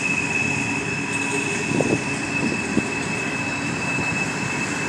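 A long train rolling past, its cars rumbling steadily with a continuous high-pitched wheel squeal.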